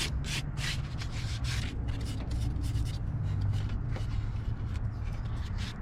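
Repeated short rubbing strokes, irregular at about two to three a second, over a steady low hum.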